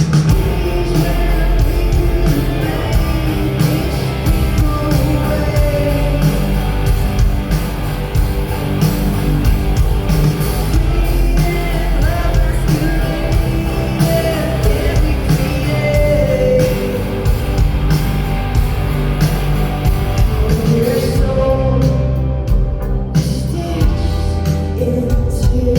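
Live rock band playing a song, with a woman singing lead over guitar, bass and drums.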